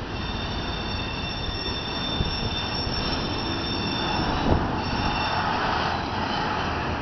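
Double-stack container train rolling through a curve, its steel wheels squealing against the rail with several high steady tones over the rumble of the cars. A single knock about four and a half seconds in, and the squeal fades soon after.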